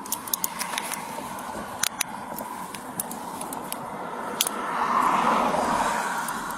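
A passing car, its noise swelling and fading about five seconds in, over scattered clicks and rustling close to the microphone.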